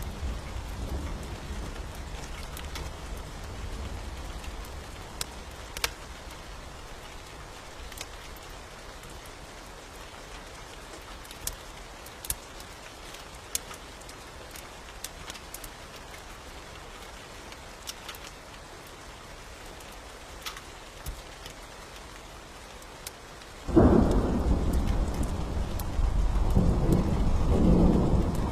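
Steady rain with scattered sharp crackles, then a sudden loud thunderclap near the end that keeps rumbling in waves.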